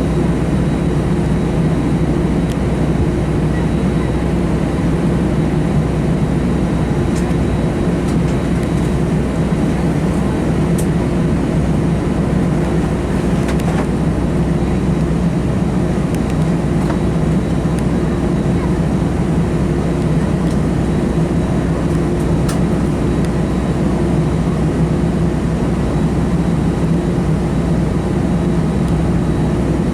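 Steady cabin drone of an Airbus A319-115 taxiing, its CFM56 engines at idle under an even rush of noise. A few faint clicks are heard.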